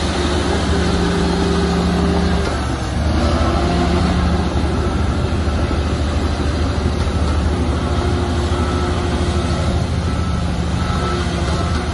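Shantui bulldozer's diesel engine running steadily under load. Its note dips and changes briefly about three seconds in, then settles again.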